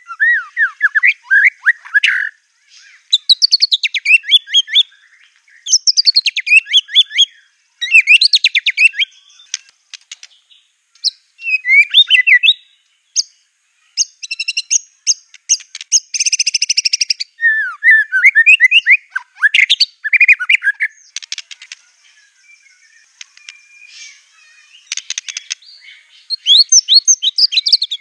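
White-rumped shama singing loud phrases of fast, swooping whistled notes and rattling trills, one burst every second or two with short pauses between them.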